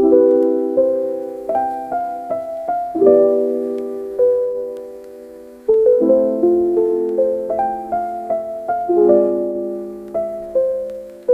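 Background music: a solo piano playing a slow melody over held chords, each note struck and left to ring and fade.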